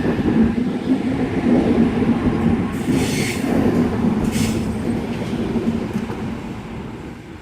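A 4-car Oscar (H set) electric intercity train pulling out and running along the platform, a steady rumble with a held hum, with two short high-pitched sounds a second or so apart midway. It fades as it moves away.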